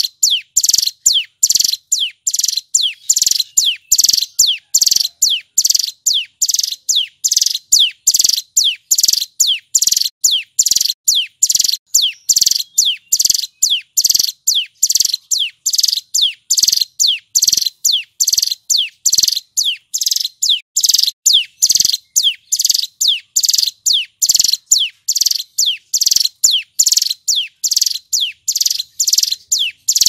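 Male hill prinia (ciblek gunung) singing a long, unbroken run of loud, sharp whistled notes, each sliding downward in pitch, repeated at about two to three a second.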